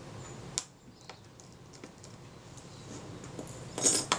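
Small metal clicks and light ticks from undoing the tiny retainer screws on a camera shutter case. There is a sharp click about half a second in, and a brief, louder rustling noise near the end.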